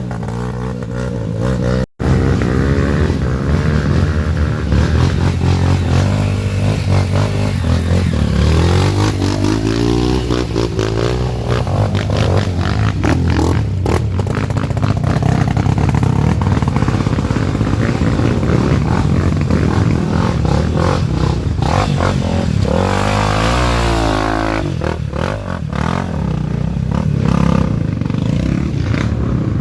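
Trail motorcycle engines revving, their pitch rising and falling over and over, with clattering and scraping. The sound drops out for an instant about two seconds in.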